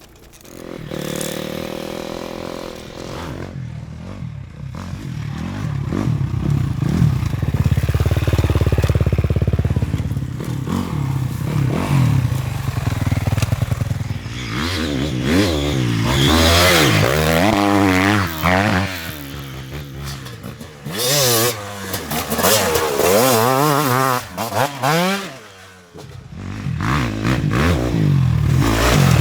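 Enduro dirt bike engines revving hard, the pitch climbing and dropping over and over as the throttle is opened and closed, with a brief lull about four-fifths of the way through.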